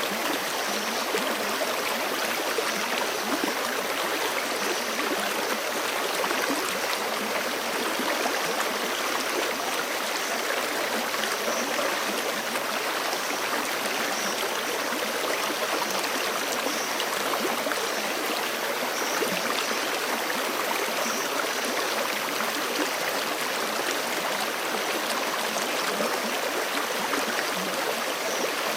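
Forest stream rushing steadily over rocks, an even, continuous water sound.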